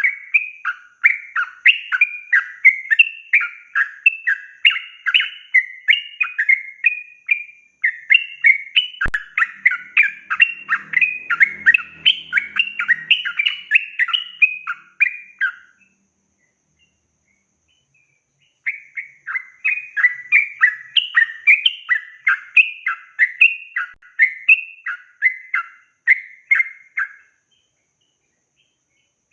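Sooty-headed bulbul (trucukan) singing a long, rapid run of chattering phrases. The run breaks off for about three seconds a little past the middle, then resumes. A single sharp click comes about a third of the way through.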